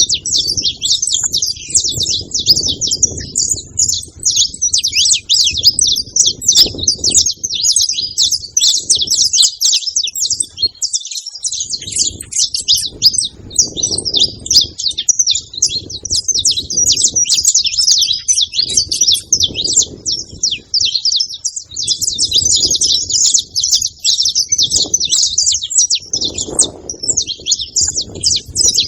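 Wild saffron finches singing together in a dense, unbroken run of high chirps and trills. A low rumble comes and goes underneath.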